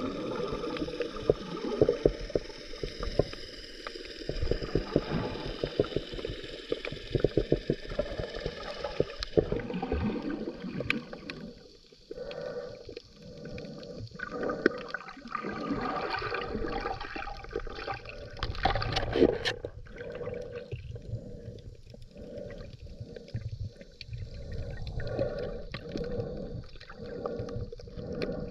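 Underwater scuba-diving sound: gurgling and crackling bubbles from a diver's regulator, swelling and fading every few seconds.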